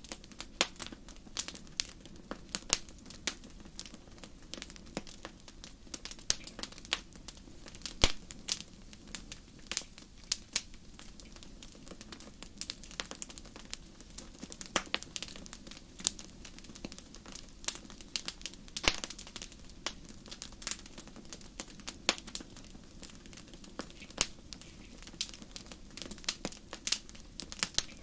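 Fire crackling in a fireplace: irregular sharp pops and snaps, several a second, over a soft low rumble.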